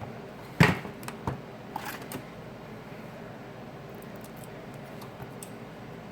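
A few sharp clicks and knocks of small phone parts and tools being handled on a workbench, the loudest about half a second in, followed by faint scattered ticks.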